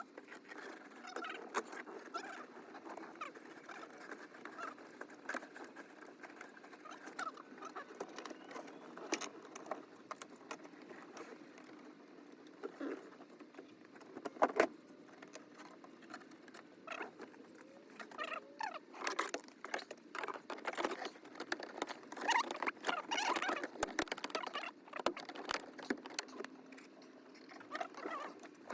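Irregular small clicks, taps and scraping from hand work on truck sunroof parts, over a faint steady hum. The clicking grows busier and louder from about two-thirds of the way through.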